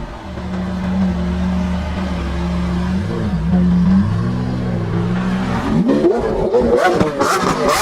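High-performance car engine running at a steady low rev, then about six seconds in revving hard as the car accelerates away, its pitch rising, with a rapid crackle near the end.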